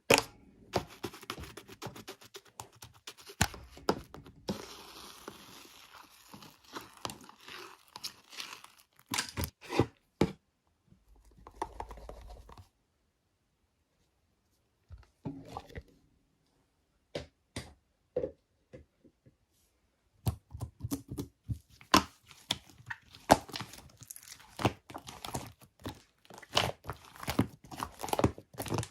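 Slime being squished and stretched by hand, with dense runs of crackling and popping from trapped air, in bursts separated by short pauses.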